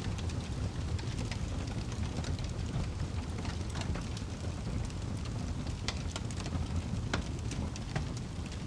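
Fire in a fireplace crackling: a steady low rumble of flames with frequent sharp pops and crackles, a few louder ones in the second half.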